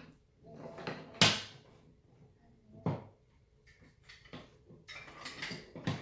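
Wooden toy train track pieces clacking and knocking together as they are handled and set down on the table, with two sharp knocks, the loudest a little over a second in and another near three seconds, and lighter rattling between.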